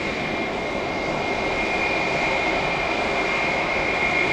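Airbus A320's jet engines running at takeoff power for the takeoff roll: a steady rush with a steady high whine, growing slightly louder.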